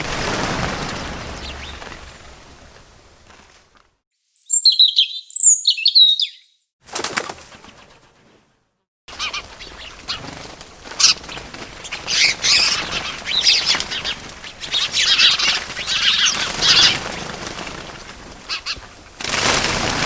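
Bird sound effects: rushing, fluttering flaps of wings, with a few short high chirps about four to six seconds in. After a brief gap, a long spell of wing fluttering follows, and another rush of wings starts near the end.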